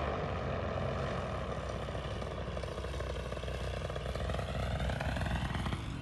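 Light propeller aircraft engine droning steadily in flight, its pitch dipping slightly and then holding.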